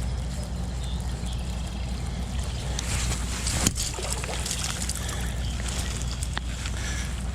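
Rain falling, with a steady low rumble of wind on the microphone and one sharp click about halfway through.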